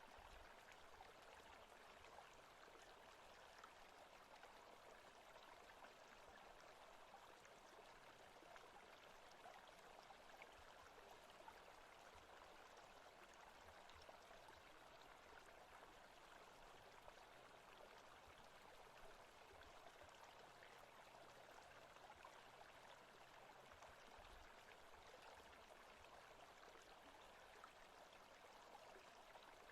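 Faint, steady forest ambience: an even rushing noise that never lets up, with faint scattered ticks.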